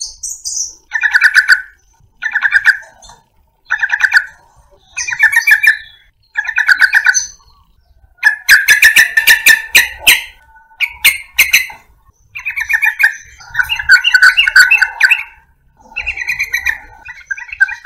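Yellow-vented bulbul (trucukan) singing: short bubbling, chattering phrases about once a second, then longer, denser runs of song from about eight seconds in.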